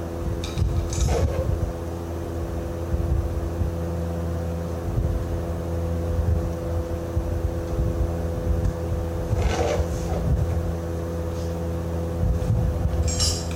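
Diesel engine running steadily at idle, a constant drone with a low rumble, with three brief metallic scrapes from hand work on the truck's front end: about a second in, about nine and a half seconds in, and near the end.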